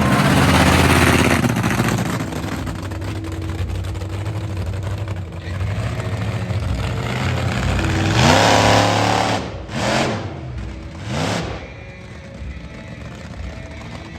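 Monster truck engine running loud at first, then running steadily, then revved up three times in quick rising bursts about eight, ten and eleven seconds in.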